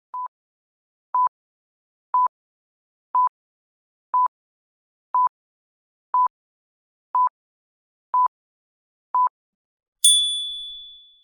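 Quiz countdown timer: ten short beeps at one steady pitch, one each second, then a bright ding about ten seconds in that rings and fades, marking time up before the answer.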